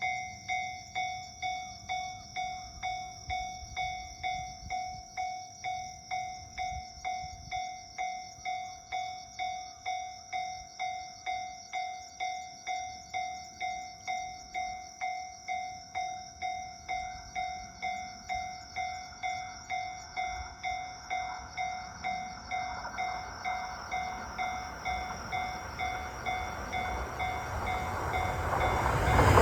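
Japanese level-crossing warning bell ringing about twice a second, a steady repeated ding. From about twenty seconds in, the rumble of an approaching E231-series electric train builds, growing loud at the end.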